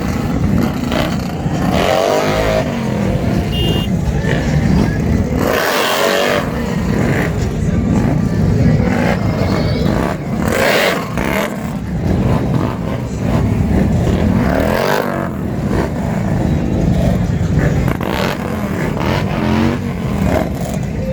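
Motorcycle engines running with a deep rumble, revving up and down several times, with vehicles passing close by.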